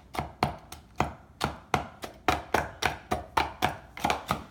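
Butterfinger candy bars being chopped up fine with a knife: quick, even strokes at about four a second.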